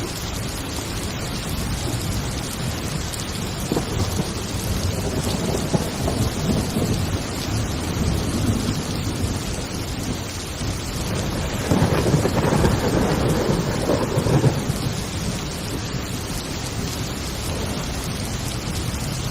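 Heavy rain falling steadily through a thunderstorm, with thunder rumbling in low rolls; the loudest roll of thunder comes a little past the middle and lasts about three seconds.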